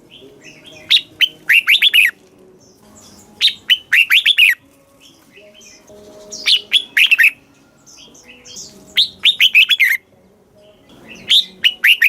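Red-whiskered bulbul singing: short, quick phrases of bright notes, repeated about every two and a half seconds, five times.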